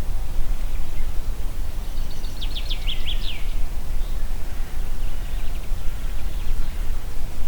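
Steady wind through the trees, heavy in the low end. A songbird sings a short phrase of quick down-sweeping notes about two to three and a half seconds in, and a fainter phrase follows a few seconds later.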